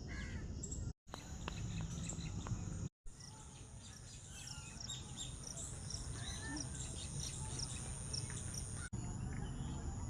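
Small birds chirping: many short high calls over a steady low outdoor rumble, cut off by two brief silent gaps about one and three seconds in.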